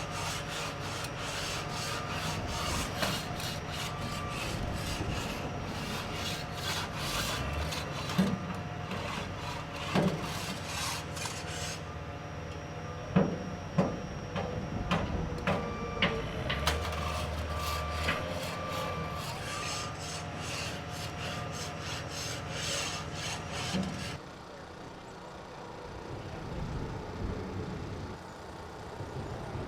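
Heavy construction machinery breaking up concrete: an engine running steadily under a dense, rapid rasping and grinding, with a few sharp knocks. The grinding stops suddenly about 24 seconds in, leaving a quieter engine rumble.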